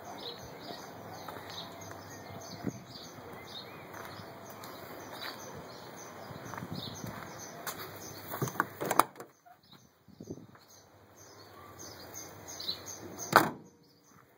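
Small birds chirping over and over against steady outdoor background noise. A few sharp knocks come about nine seconds in, and a louder single knock comes near the end.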